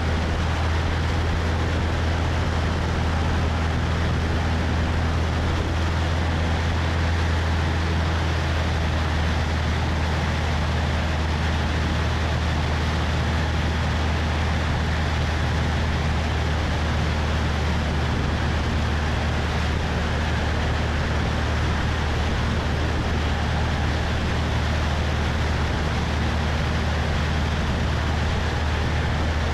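Cessna 172's piston engine and propeller droning steadily in flight, with a low hum under a constant rush of wind over the wing-mounted microphone.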